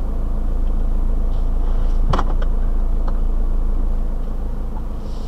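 Steady low rumble of a 4WD's engine idling, heard from inside the cab, with one brief sharp sound about two seconds in.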